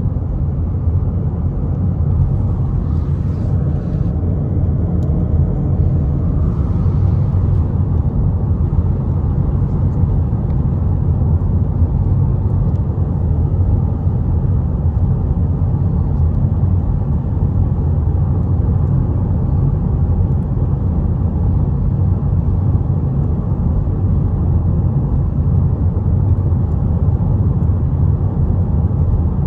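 Steady road and engine rumble of a car driving along, heard from inside the cabin.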